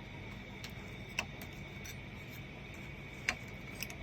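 Two light clicks of small shredder parts being handled as a gear is seated on the flat of its shaft, one about a second in and one past three seconds, over a steady faint hum and whine.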